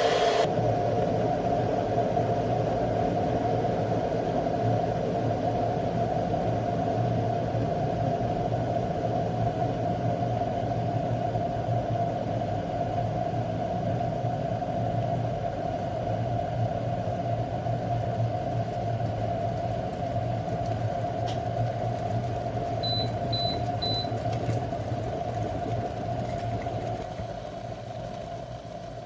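2200 W glass electric kettle heating water with a steady rumble and hiss. Three short high beeps come about 23 seconds in, and the rumble dies down near the end.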